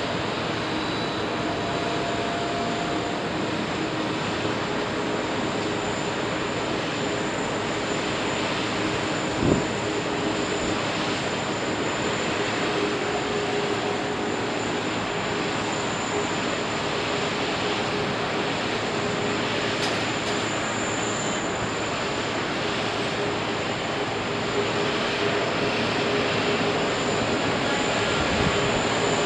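Airbus A380 jet engines running, a steady roar with a thin high whine over it. A short thump about nine and a half seconds in.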